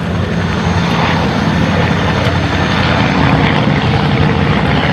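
The twin Armstrong Siddeley Cheetah radial engines of an Avro Anson Mk I running steadily in flight, a propeller-driven drone that swells slightly about three seconds in.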